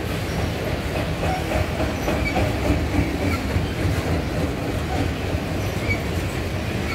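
Freight train of multilevel autorack cars rolling past close by: a steady rumble of steel wheels on the rails.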